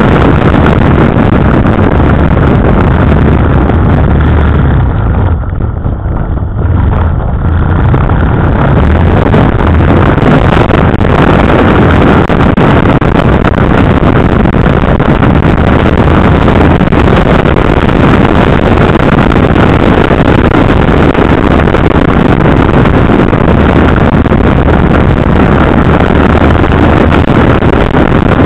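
KTM 990 Adventure's V-twin engine running on the move under a loud, steady rush of noise, easing off briefly about five to seven seconds in before pulling on again.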